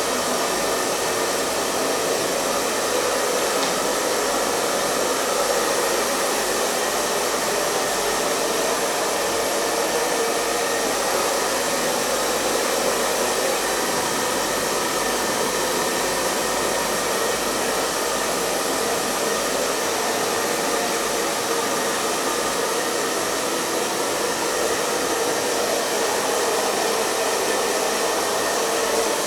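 Hair dryer running continuously at a steady speed: an even, unchanging rush of airflow with a faint steady motor whine in it.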